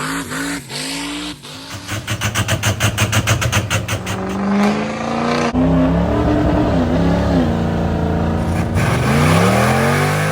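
Turbocharged 6.0-litre diesel pickup truck engine running and revving. Its pitch rises and falls, with a fast, even train of pulses in the middle, and it climbs again as the truck accelerates near the end.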